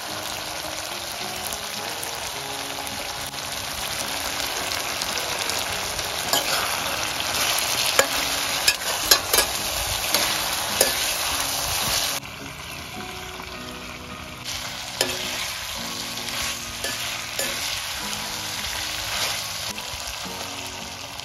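Chicken curry masala sizzling in a stainless steel kadai on a portable gas stove while a metal spoon stirs it, with a few sharp knocks of the spoon against the pan in the middle. The sizzle turns quieter about twelve seconds in.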